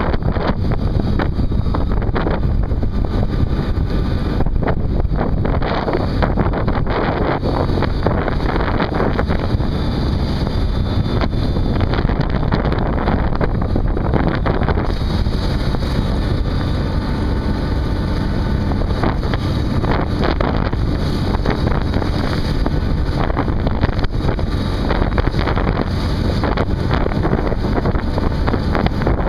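Wind buffeting the microphone on a ship's deck at sea, over a steady low rumble from the vessel, with no pauses or distinct events.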